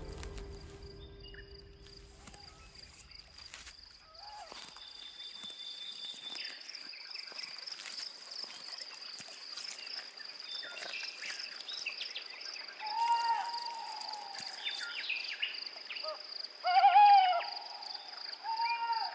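Night-time wild ambience: a steady, high, pulsing insect trill, with a few short rise-and-fall animal calls over it in the second half, the loudest near the end.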